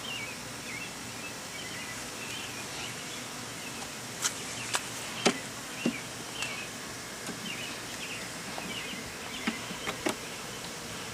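Honeybees buzzing around an open hive over a steady hiss, with a handful of sharp clicks and knocks, most of them from about four to six seconds in and again near the end.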